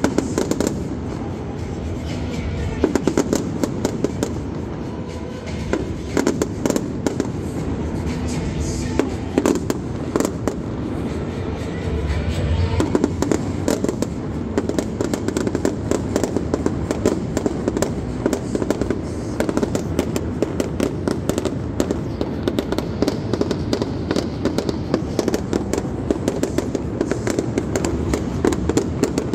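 Fireworks display going off: a dense, continuous string of sharp bangs and crackles, several a second.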